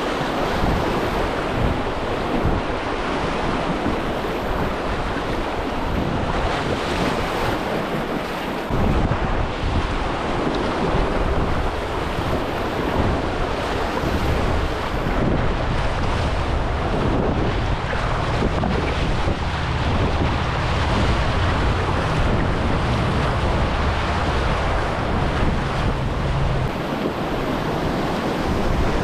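River rapids rushing steadily, with wind buffeting the microphone; the low rumble grows heavier about nine seconds in.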